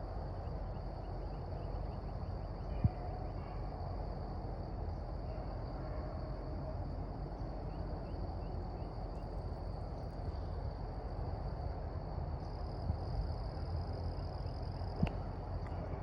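Outdoor field ambience: a steady high-pitched insect drone over a low rumble of wind on the microphone, with a sharp click about three seconds in and another near the end.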